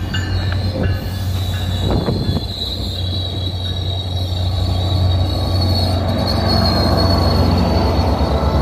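SunRail bilevel commuter train passing close by, with a steady high metallic squeal over a low diesel drone. The sound grows louder toward the end as the diesel locomotive pushing at the rear comes alongside.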